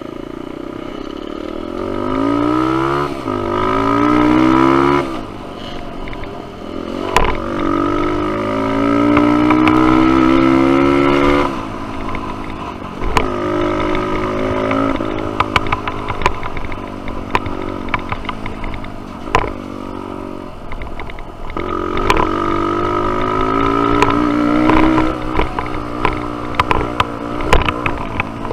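Dirt bike engine being ridden on a trail, its pitch climbing under throttle and dropping back several times as it is shifted and the throttle is let off. Sharp knocks and clatter are mixed in throughout.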